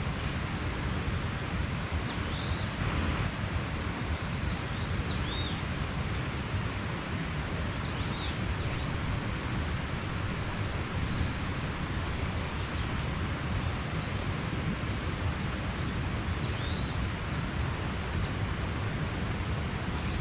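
Mountain stream flowing steadily, with a small bird calling over it in short, high, down-curving chirps every second or two.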